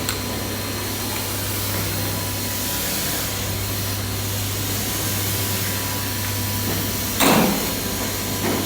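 Steady machinery noise: a low hum with faint steady whining tones above it, and one short, louder burst about seven seconds in.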